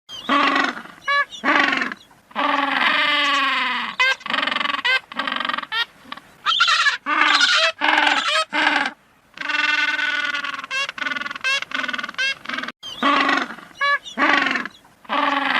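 A run of pitched animal calls one after another, some held about a second, others short with a quavering tremble.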